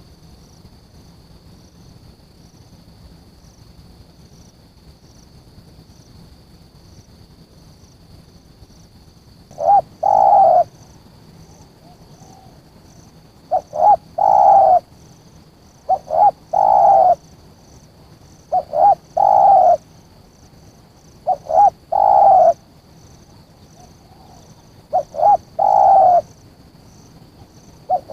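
Spotted dove (tekukur) cooing, beginning about nine seconds in: a quick two-note lead-in and then a longer coo, repeated seven times about every three seconds. A faint steady high hum with regular ticking runs underneath.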